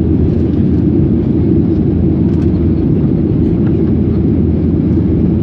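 Steady low rumble of an airliner heard from inside the passenger cabin: engine and airflow noise.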